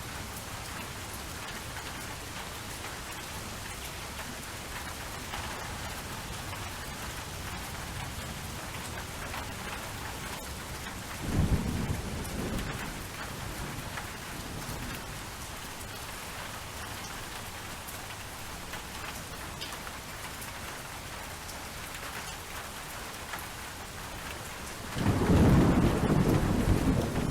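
Steady rain with thunder: a short low roll about halfway through and a louder, longer rumble near the end.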